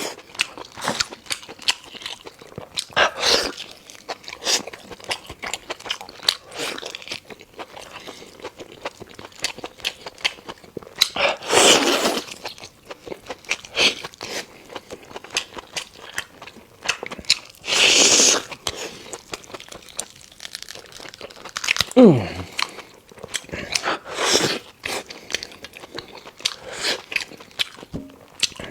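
Close-miked chewing and biting of lamb ribs and lamb neck meat: many small wet clicks and crunches, with two louder rushing sounds of about a second each in the middle and a short falling tone later on.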